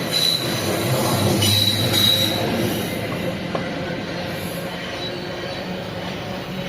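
A train running past on the track, with steady rolling noise and a high wheel squeal over the first two seconds or so.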